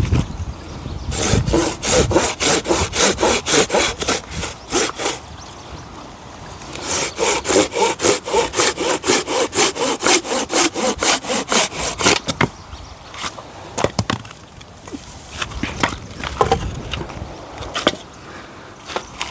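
Hand saw cutting through firewood with quick back-and-forth strokes, about three to four a second, in two long runs with a short pause between. A few slower, scattered strokes come near the end.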